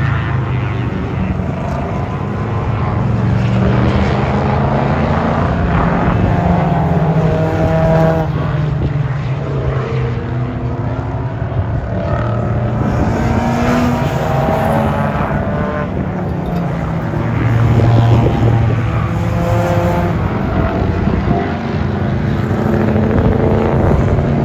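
Several race cars on track at full throttle, their engines revving up through the gears in repeated rising sweeps as they pass, with no break in engine sound.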